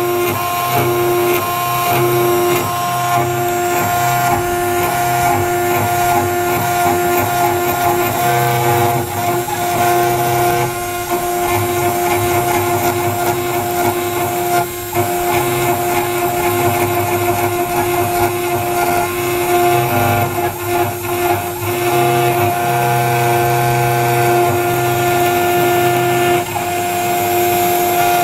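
CNC router spindle running with a steady high whine while engraving metal, over a rougher cutting and motor noise that rises and falls as the tool moves, with a few brief dips.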